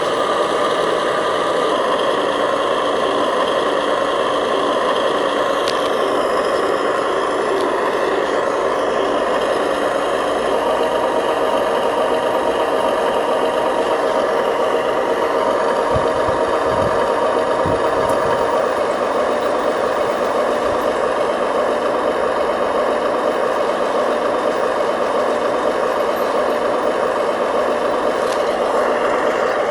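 Electric motors and gearboxes of remote-control construction models (bulldozer and dump trucks) running steadily with a mechanical whine. The pitch mix shifts about six seconds in and again near the end.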